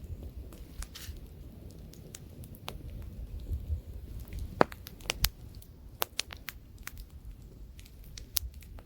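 Wood campfire burning: irregular sharp crackles and pops, several louder ones in the second half, over a low rumble of light wind.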